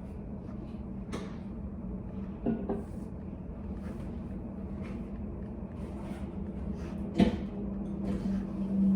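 Study-room ambience: a steady low hum with scattered soft rustles and small clicks. There is a light knock about two and a half seconds in and a sharper knock about seven seconds in.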